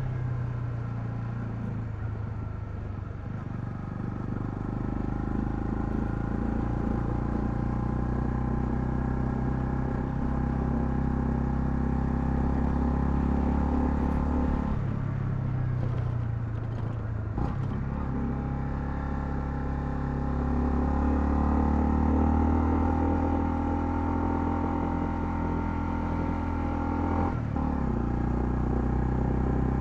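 Honda CL250's single-cylinder engine running under way. Its note drops and breaks off about halfway through, then picks up again, with another brief break near the end, as on gear changes.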